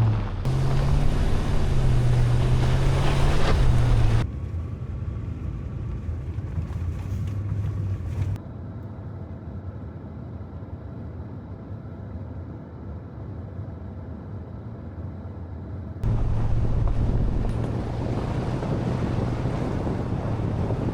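A truck driving: a steady low engine hum under rushing road and wind noise, louder in the first four seconds and again for the last five. The sound changes abruptly about four, eight and sixteen seconds in.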